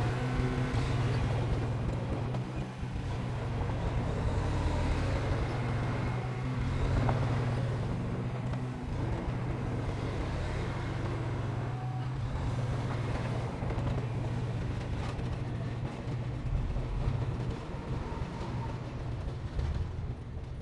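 Heavy diesel construction machinery running: a steady, deep engine drone.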